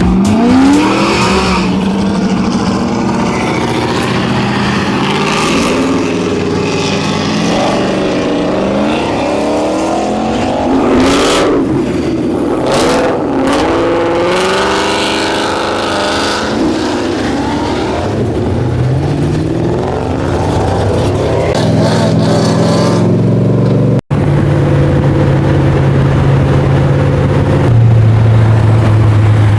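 Car engines running hard, rising in pitch again and again as they accelerate through the gears. After a brief break in the sound about two-thirds of the way in, an engine holds a steady drone.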